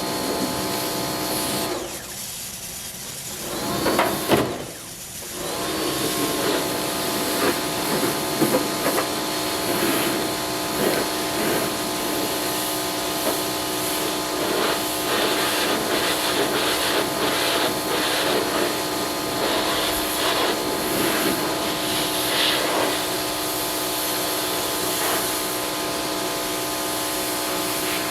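A small motor-driven yard machine running with a steady hum. It cuts out about two seconds in and comes back up to speed about five seconds in, then runs on, with scattered hissing and rubbing noises over it.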